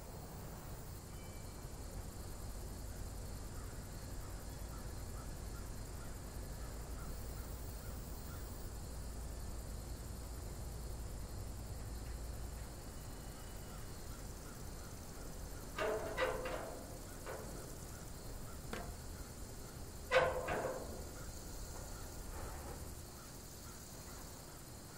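Faint outdoor background with a low, steady rumble that fades out about halfway through. Later come a few short, harsh bird calls in two clusters, a few seconds apart.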